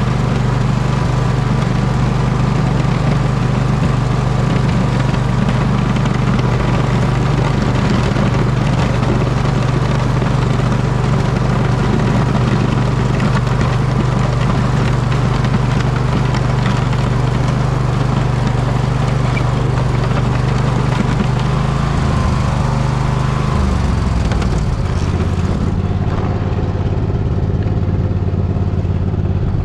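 Poulan riding lawn tractor engine running steadily under load while plowing snow. About 22 seconds in, the engine note steps down and settles lower.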